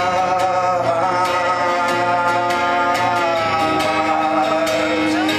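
Live rock band music continuing between sung lines, with a steady beat.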